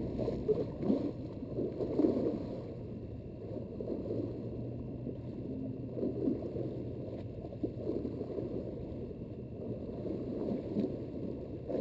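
Water lapping and gurgling at the edge, a steady irregular wash with a few louder sloshes in the first couple of seconds.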